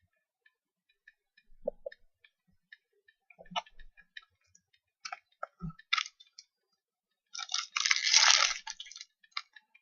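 Trading cards and their packaging being handled: scattered light clicks and taps, then a dense rustling burst of about a second and a half near the end.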